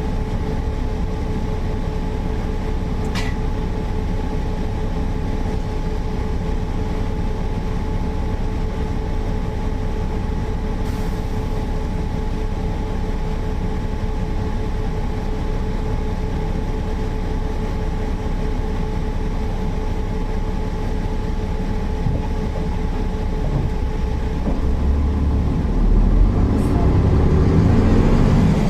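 Mercedes-Benz O408 bus's diesel engine running steadily with a constant whine over a low rumble, getting louder and rougher in the last few seconds as it works harder.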